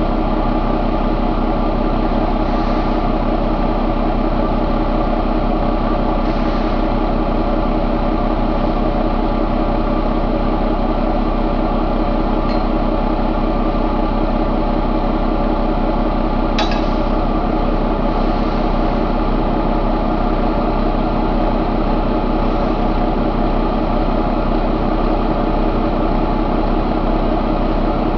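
Paccar MX13 inline-six diesel engine idling steadily, with one brief sharp click partway through.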